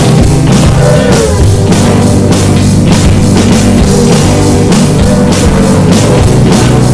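Loud rock music with guitar and drums, a steady driving beat of evenly spaced drum hits under sustained guitar notes, one note bending up and back about a second in.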